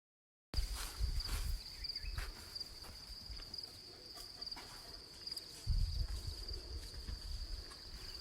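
Insects keeping up a steady, high, unbroken trill, cutting in abruptly about half a second in. Low rumbling bursts hit the microphone near the start and again around six seconds in.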